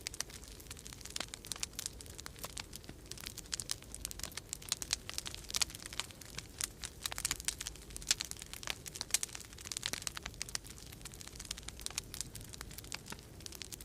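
Wood fire in a fireplace crackling, with many irregular snaps and pops, over a steady low rumble of storm wind.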